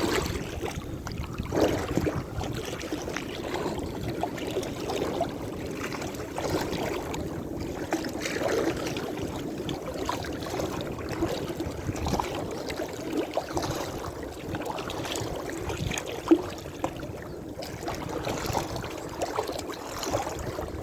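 Sea water sloshing and lapping against a small fishing boat, uneven and continuous, with a single sharp knock about 16 seconds in.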